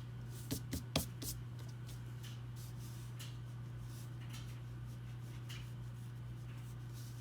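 Drawing strokes on paper: a few sharper taps and scratches come about half a second to a second and a half in, followed by lighter scattered strokes. A steady low hum runs underneath.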